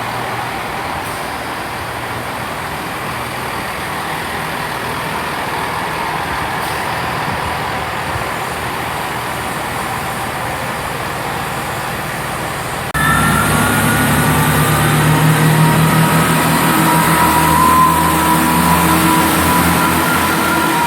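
Class 165 diesel multiple unit standing at the platform with its engines running steadily. About two-thirds of the way through, the engines open up and it gets suddenly louder: a diesel drone with a high whine on top, as the train pulls away.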